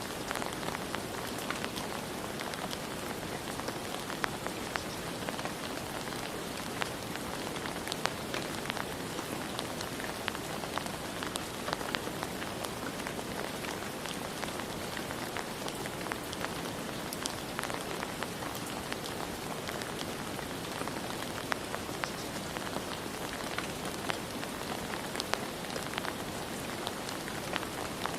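Steady rain falling, an even hiss with scattered sharp drops tapping on a surface.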